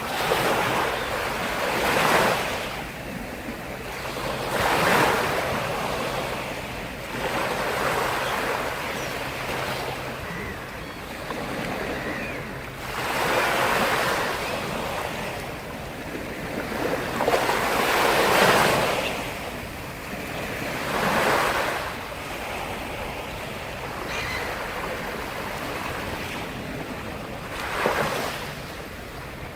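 Sea surf: waves breaking one after another, each a swelling rush of noise that fades away, a few seconds apart.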